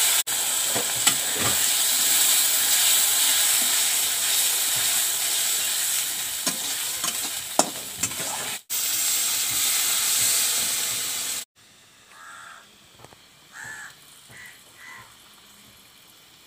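Wet masala paste sizzling loudly in hot mustard oil in a metal kadhai, with a flat metal spatula scraping and clinking as it is stirred. The sizzle cuts off abruptly about eleven seconds in, leaving a quiet background with a few faint short sounds.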